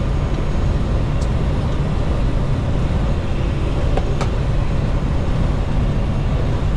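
Steady low rumble of a semi-truck cab at highway cruising speed: engine drone and road noise heard from inside the cab, with two faint clicks, one about a second in and one about four seconds in.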